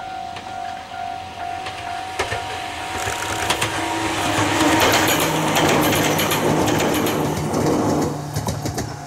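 Two-car electric train passing close by: running noise with a steady motor hum and wheels clicking over rail joints, building to its loudest about halfway and fading near the end. Under it a level crossing bell rings in quick, even pulses, drowned out while the train goes by.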